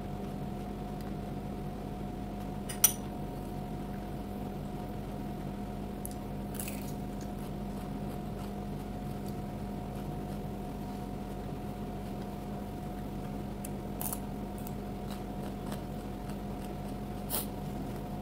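Closed-mouth chewing of raw vegetables and fruit, with a few faint crisp clicks and one sharp click about three seconds in, over a steady low hum.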